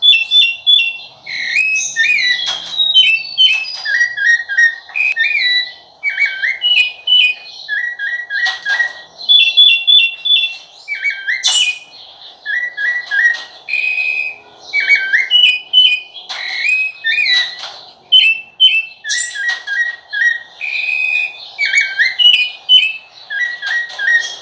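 Rufous-bellied thrush (sabiá-laranjeira) singing: a long run of clear whistled phrases, mixing groups of two or three short repeated notes with slurred notes, separated by brief pauses.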